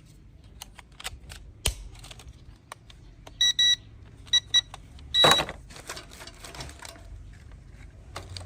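Scattered clicks and knocks with two pairs of short, high electronic beeps in the middle, then a louder rustling burst about five seconds in; no rotor or motor is running.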